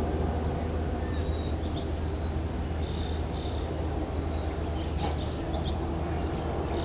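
Backyard birds chirping, many short high calls scattered throughout, over a steady low hum.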